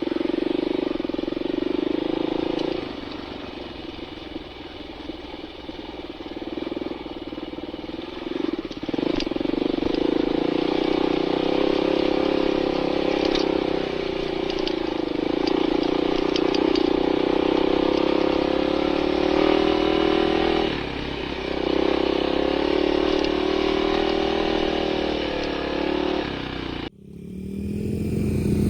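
Dirt bike engine being ridden over rough desert terrain, its pitch rising and falling as the throttle opens and closes. Near the end the sound cuts off abruptly, and a different, lower engine sound follows.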